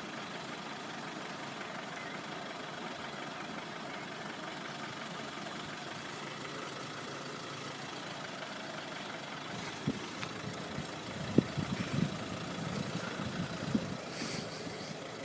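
A steady engine idling, with a few short knocks and thuds toward the end.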